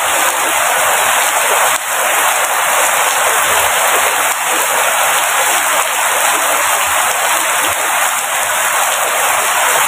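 Steady heavy rain falling, a dense, even hiss with no let-up.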